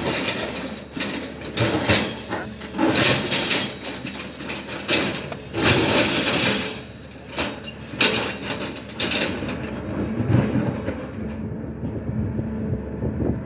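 Excavator running, with a steady low engine hum under irregular loud bursts of rough, clanking noise every second or two, easing off near the end.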